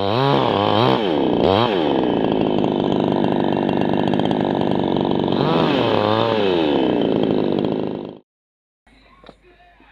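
Two-stroke chainsaw revving up and down several times and running at high speed in between, then cutting off abruptly about eight seconds in.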